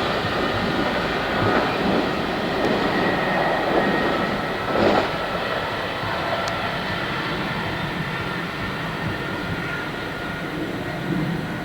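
A train running through a station, a steady rumble of wheels on rails with faint whining tones and a brief louder swell about five seconds in, slowly getting quieter toward the end.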